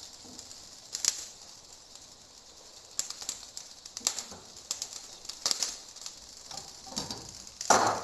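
Spoon scooping cooked rice and spreading it over the chicken in a pot: a handful of short scrapes and taps a second or so apart, the loudest near the end.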